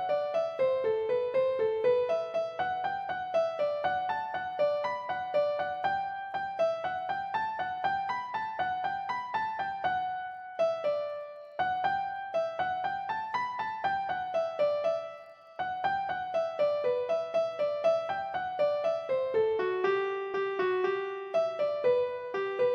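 Background piano music: a solo piano playing quick melodic runs of single notes, dropping out briefly twice.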